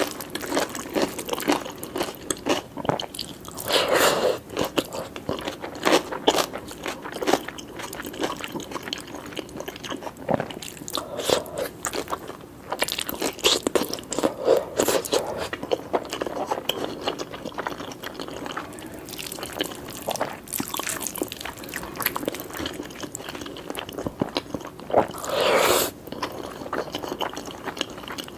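Close-up eating sounds: a person chewing and biting mouthfuls of lamb and egg curry, rice and peppers, with crunching and wet mouth clicks. Louder crunches come about four seconds in and again near the end.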